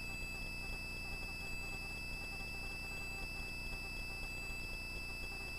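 Faint, steady hum and hiss of a helicopter's intercom audio feed, with a constant high-pitched whine running through it.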